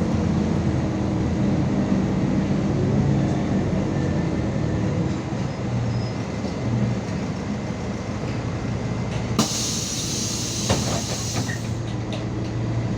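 MAZ 216 city bus running along, its engine and rolling noise heard from inside the bus, the engine note shifting as it goes. About two-thirds of the way in, a click and then a hiss of compressed air from the bus's air system lasting about two seconds.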